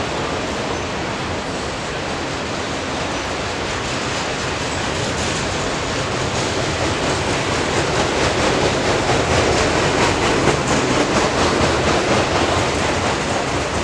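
A train's cars rolling past on the rails: a steady rush of wheel and rail noise with faint clicking. It grows louder in the second half.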